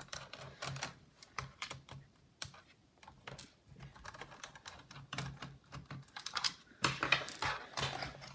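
Scattered light clicks and taps of hands working on an open laptop, plastic and metal parts being handled, growing busier and louder near the end.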